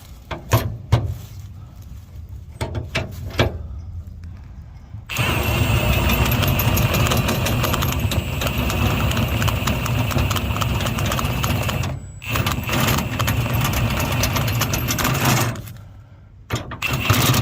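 Milwaukee 18-volt cordless impact wrench hammering the spare-tire carrier bolt back in tight, in one long run of about seven seconds and a shorter run of about three seconds after a brief pause. Before it come scattered clicks and knocks of the bolt and socket being handled.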